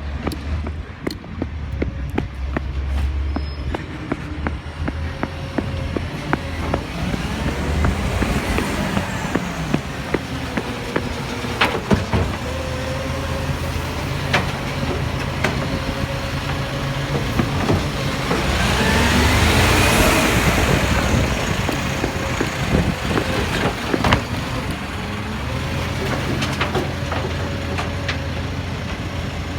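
Road vehicles: a steady engine drone with traffic, and one vehicle swelling past about twenty seconds in, with scattered clicks and knocks.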